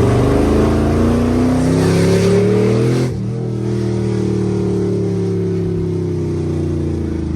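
Chevrolet Camaro SS 6.2-litre V8 accelerating hard on an unfinished exhaust that lacks its connector pipes to the headers. The engine note climbs for about three seconds, drops suddenly at an upshift, then holds and eases slightly lower.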